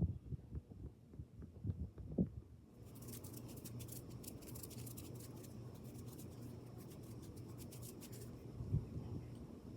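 Close-miked ASMR handling sounds: soft muffled taps and thumps, then fine crackling and scratching over a low steady hum from about three seconds in, with a few more thumps near the end.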